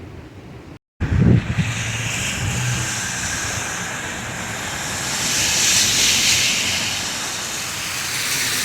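Storm wind with road noise: a steady rushing hiss that swells and fades around six seconds in, with wind buffeting the microphone in a low thump just after a break about a second in.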